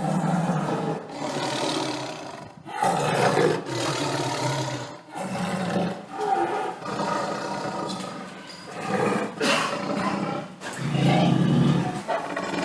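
A large wild animal calling over and over: a run of deep, loud calls of a second or two each, with short breaks between them.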